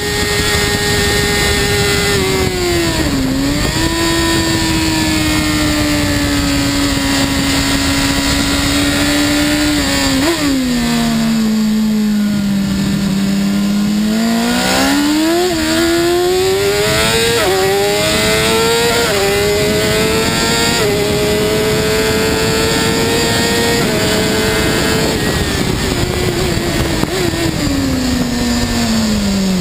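BMW S 1000 RR's inline-four engine running hard at track speed. Its pitch drops under braking twice in the first half, climbs through several quick upshifts in the middle, then falls again near the end.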